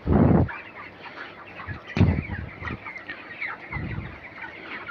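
A flock of 23-day-old broiler chickens giving many short, falling peeps and clucks, with three dull thumps; the loudest thump comes right at the start.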